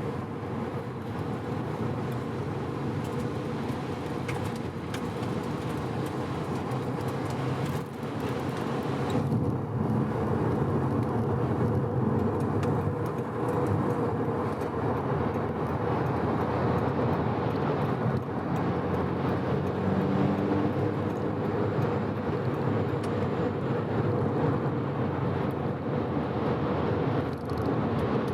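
Mazda RX-7 (FD3S) 13B twin-rotor twin-turbo rotary engine running at a steady cruise with tyre and road noise, held to gentle throttle while the freshly rebuilt engine is run in. It grows a little louder about eight to ten seconds in.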